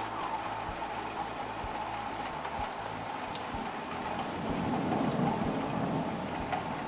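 Heavy thunderstorm rain falling steadily, with a low rumble of thunder swelling about four and a half seconds in.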